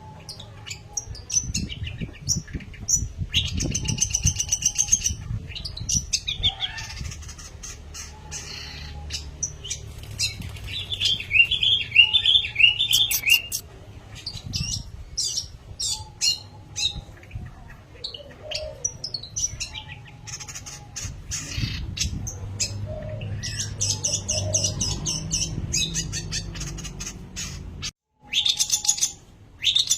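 Long-tailed shrike singing in full voice: a varied, chattering song of quick chirps, rattles and trilled runs with short breaks, cutting out briefly near the end.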